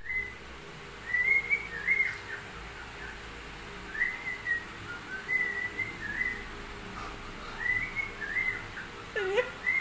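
A bird whistling phrases of two or three short, clear notes at a high pitch, with pauses of a second or two between the phrases. Just before the end there is a brief lower swooping sound.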